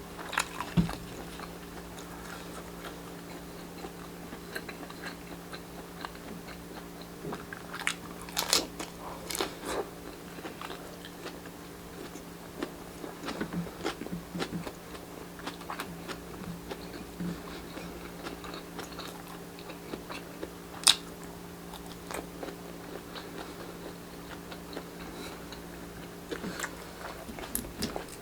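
Close-up eating sounds of grilled Filipino street-food barbecue: irregular bites, crunches and chewing, with one sharp crunch or click about two-thirds of the way through. A steady low hum sits underneath.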